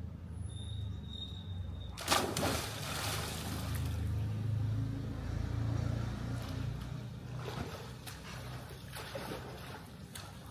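Pool water splashing and sloshing, starting with a sudden splash about two seconds in and going on as an uneven wash of water noise over a low steady hum.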